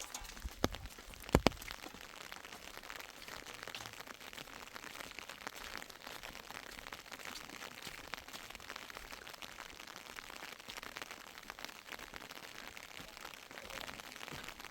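Steady rain, many fine drop ticks pattering without pause. Two sharp knocks come within the first two seconds.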